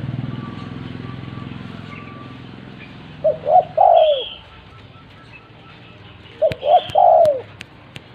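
Spotted dove (tekukur) cooing: two phrases about three seconds apart, each two short notes and then a longer falling note. A low hum fades away during the first three seconds, and a few faint clicks come near the end.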